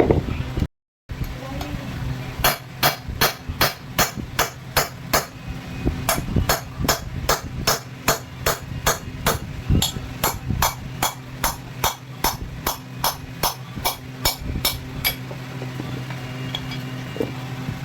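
Hammer blows on metal, about two or three a second for some twelve seconds, each with a bright ring, as an exhaust valve guide is driven in a cylinder head. A steady machine hum runs underneath.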